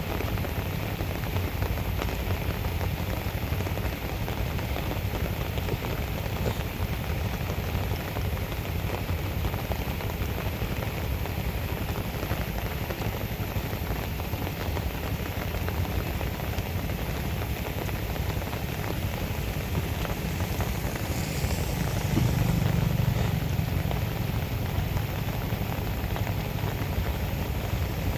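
Steady rush of rain and running floodwater on a street, with a louder low rumble swelling about 22 seconds in.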